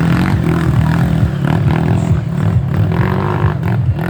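Dirt bike engine revving unevenly, its pitch rising and falling repeatedly.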